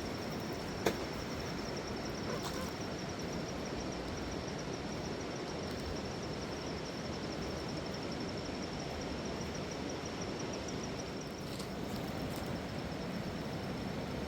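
Steady rushing of river water, with an insect trilling continuously at a high pitch that fades out near the end; a faint sharp click about a second in.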